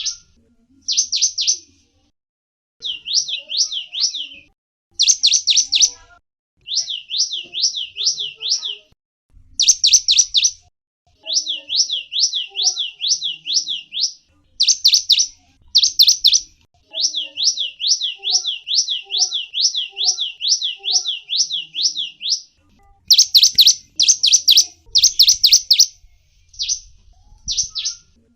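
A small songbird (gelatik wingko) calling in short bursts of rapid, high-pitched notes that each sweep downward, about four to five notes a second, with brief pauses between bursts. The longest unbroken run comes past the middle.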